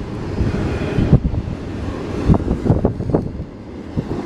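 Wind buffeting the microphone in irregular low gusts and thumps.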